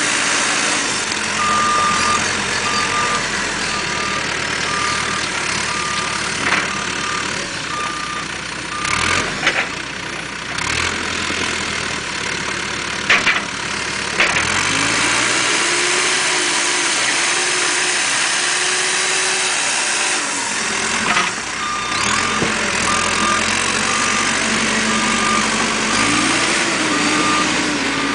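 Caterpillar 432E backhoe loader's diesel engine running, with its reversing alarm beeping steadily in two stretches, near the start and again near the end. In the middle the engine revs up and back down, and there are a few sharp knocks.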